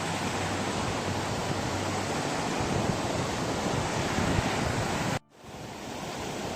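Steady rushing of a small mountain waterfall and stream. The sound cuts out for a moment about five seconds in, then resumes.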